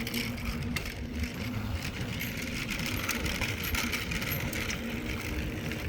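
Mountain bike rolling along a rail trail, with steady tyre noise and wind rushing over the handheld phone's microphone.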